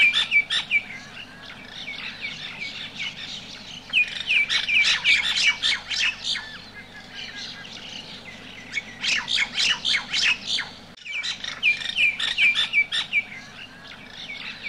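Birds chirping and squawking in quick bouts of many short repeated calls, over a steady low hum.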